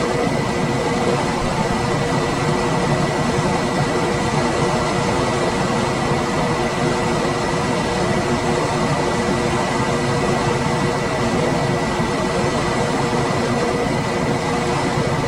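Room air conditioner running steadily: an even rushing hum with a few faint steady tones through it.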